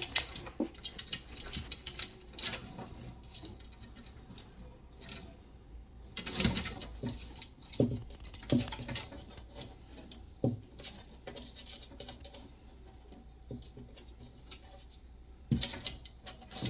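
Scattered scratching, rustling and knocking from a monitor lizard moving about in the enclosure next door, with a busier stretch about six seconds in and a few sharper knocks after it.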